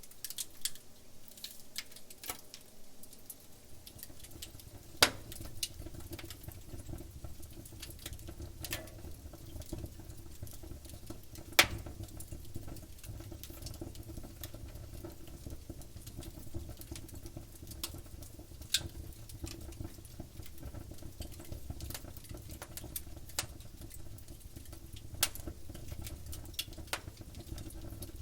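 Burning firewood crackling with many small irregular snaps and a few sharp pops, two much louder than the rest about five and twelve seconds in, over a low steady rumble from the fire.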